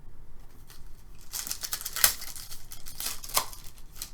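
Hockey card pack wrapper being torn open and crinkled, with a few sharp clicks of cards being handled at first. The rustling is loudest a little over a second in and dies away shortly before the end.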